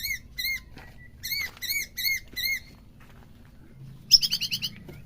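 White-rumped shama (murai batu) calling: a run of identical squeaky, arched notes about four a second, a short pause, then a fast, higher-pitched rattling trill near the end, played as a stimulus to provoke a caged shama to sing.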